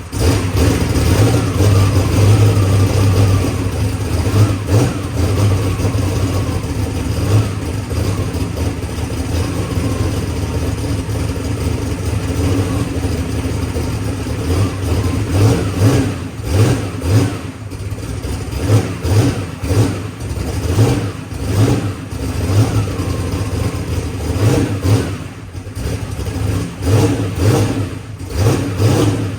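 Turbocharged methanol-fuelled drag-car engine running on a first fire-up, steady for the first half, then surging in uneven pulses about once a second. The owner judges it to be running a little rich.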